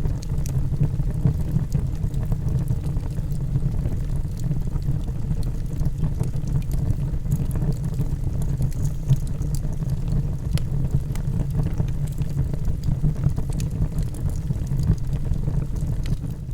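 Log fire burning in a fireplace: a steady low rumble of the flames with scattered small crackles and pops from the burning wood.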